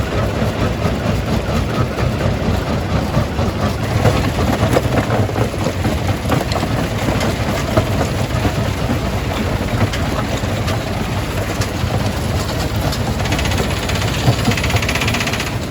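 Rock-crushing jaw crusher at work: a steady low machine drone with a dense clatter of knocks from rock being broken in the jaws. A higher hiss joins near the end.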